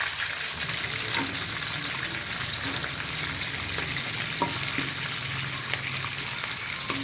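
Chana dal, curry leaves, green chillies and cashews sizzling steadily in hot oil in a kadhai as a tempering is roasted and stirred, with a few light clicks of the spoon against the pan.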